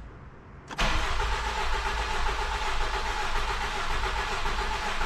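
Honda 2.2 i-DTEC diesel engine starting about a second in and running on at a steady idle. This is the replacement engine firing once the fuel rail pressure relief valve, which was thought stuck open and leaving no fuel pressure, has been swapped.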